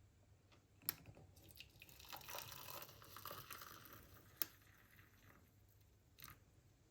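Quiet small handling sounds: two sharp clicks about three and a half seconds apart, with a couple of seconds of crinkly rustling between them and a softer knock near the end.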